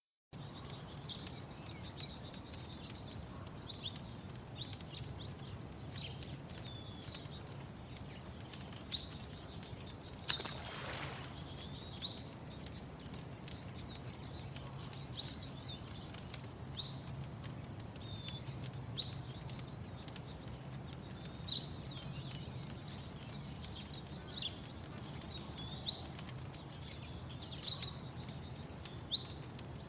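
Small birds chirping in short, high calls every second or two, over a steady low rumble, with sharp pops and crackles from a wood fire in a firepit. About ten seconds in comes one brief rushing whoosh.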